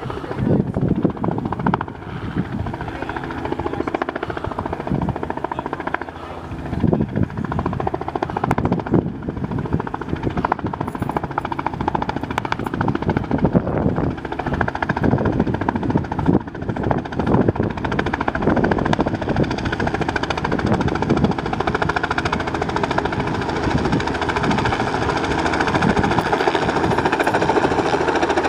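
Helicopter rotor and engine running steadily, a rapid continuous chop of the blades.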